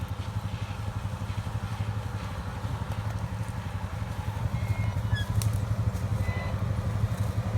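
Jeep engine running steadily at low idle, a slow crawl-speed hum that grows a little louder about halfway through.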